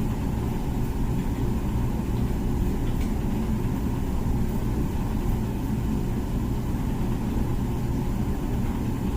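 Comfee dishwasher running its wash cycle: a steady low rumble and hum from the machine.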